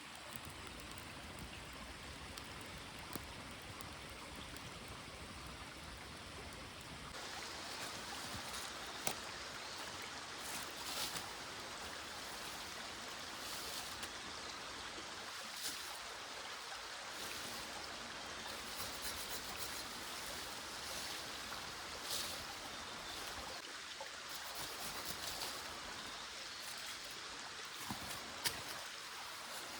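A small stream running steadily, the water sound shifting abruptly and getting brighter about seven seconds in, with a few faint clicks.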